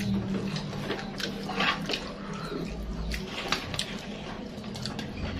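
Close-miked chewing and lip-smacking of a person eating rice, egg and tofu with his fingers: a run of wet mouth clicks and squishes, over a low steady hum.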